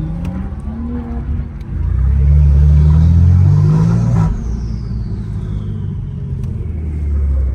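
A car engine accelerating hard, its pitch climbing for about two seconds, then backing off to a steady low rumble, with a faint high whine falling in pitch as it lets off.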